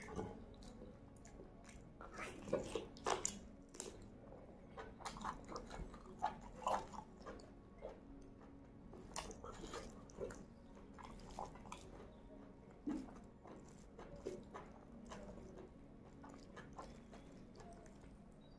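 Close-miked eating sounds: irregular wet chewing, lip smacks and clicks from a mouthful of mutton leg meat. There is also a soft squish as fingers mix rice with gravy and scoop it up.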